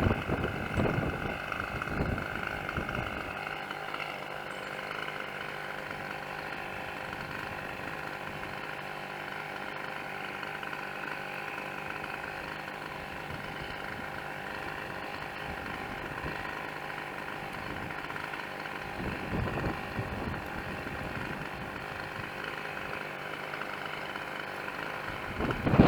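An engine running at a steady speed, with gusts of wind buffeting the microphone at the start, about two-thirds through and at the end.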